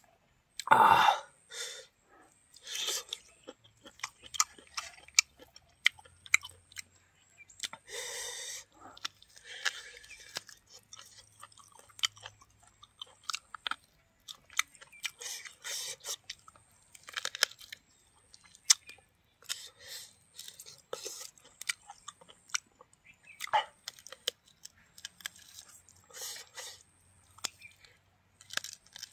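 Close-up chewing and crunching of a spiced piece of buffalo meat eaten by hand, in irregular bites and chews, the loudest crunch about a second in.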